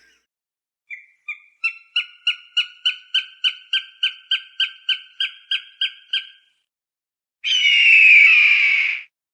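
Falcon calling: a rapid kek-kek series of about eighteen short, sharp calls at roughly three a second, then after a short pause one harsh, drawn-out scream of about a second and a half.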